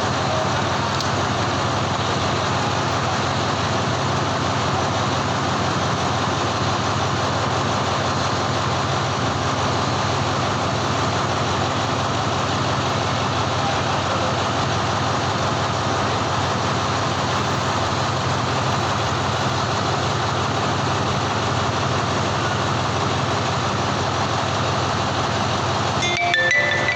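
Diesel locomotive idling steadily, a constant low engine hum. A brief cluster of higher tones comes in near the end.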